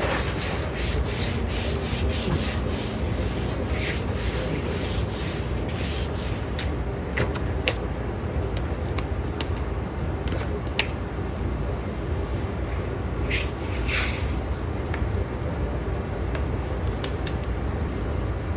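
Household handling sounds: rubbing or scraping strokes with many light clicks and knocks, coming quickly for the first several seconds and more sparsely after.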